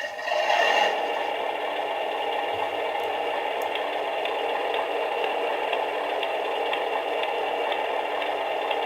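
Steady mechanical running noise with a light rattle and faint ticks, plausibly a Scania R620 truck running.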